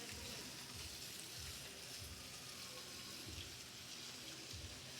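Steady hiss of rain falling, with soft low bumps every half second or so underneath.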